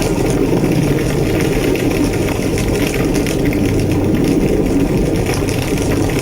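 Large structure fire burning with a steady, loud roar and a scatter of faint crackles over it.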